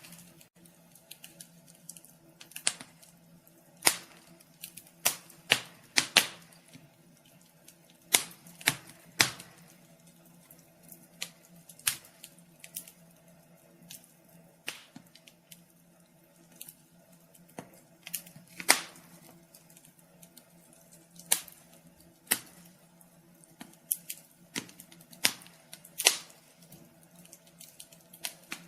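Wood fire crackling in a fireplace: irregular sharp pops and snaps, some much louder than others.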